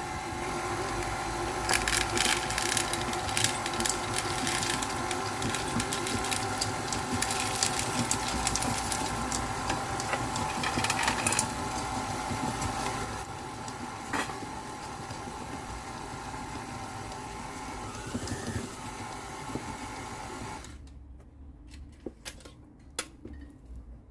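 Electric mixer running steadily, beating cookie dough with chocolate chips, with irregular clatter in the first half; the motor cuts off near the end.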